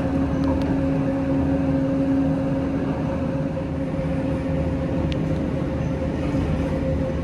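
Toyama Chiho Railway electric train running at a steady speed: a constant rumble with a steady hum, one lower and one higher tone, and an occasional faint click.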